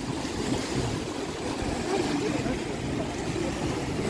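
Sea waves washing, a steady, even wash of noise without any single break standing out.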